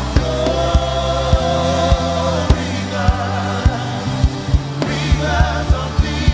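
Live gospel worship music: voices holding long sung notes over a steady low bass, with a kick drum beating about one and a half times a second.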